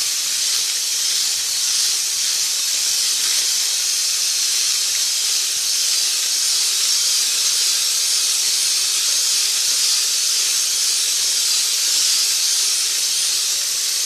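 Electric mixer running steadily, beating cake batter: a constant high hiss with a faint steady hum underneath.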